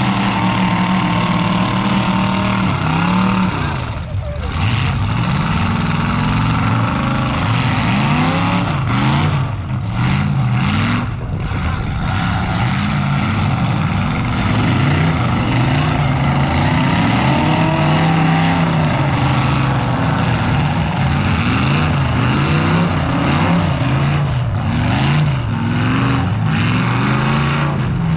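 Several demolition derby cars' engines revving, the pitch rising and falling again and again as they drive at one another in the pit.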